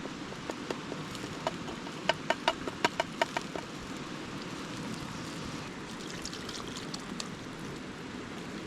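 A steady rush of creek water. About two seconds in, a quick run of about eight light, ringing metal clinks sounds, from a metal utensil against a cookpot.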